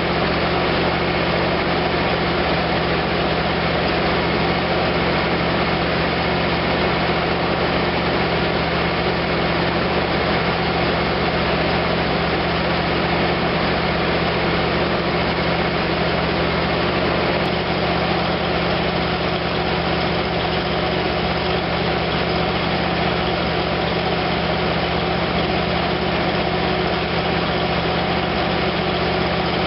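1956 DeSoto Seville's freshly rebuilt V8 engine running steadily during its initial break-in run.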